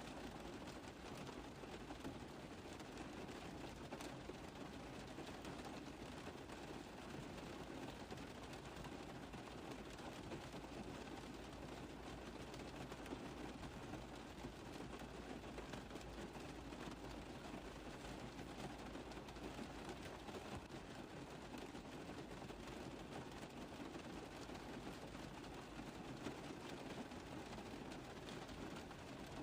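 Steady rain tapping on a car roof: a constant wash of fine, fast drop impacts.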